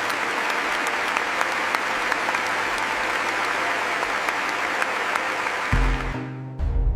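A large crowd applauding, a dense patter of many hands clapping. Near the end the clapping fades as deep, low music comes in.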